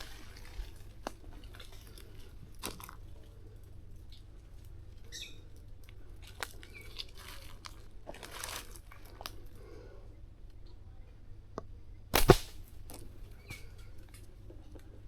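Dry leaves and twigs crunching and crackling, as of people moving through brush, with one short, much louder sharp crack about twelve seconds in.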